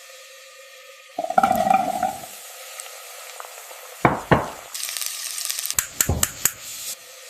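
Stew cooking in a pot: a utensil clinks and knocks against the pot several times, with a brief sizzle in between, over a steady background hiss.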